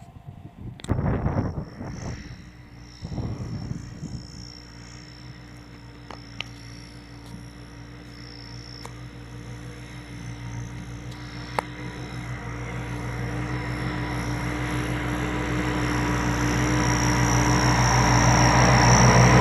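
New Holland tractor's diesel engine running steadily, growing louder as it draws closer. A few rough thumps come in the first few seconds.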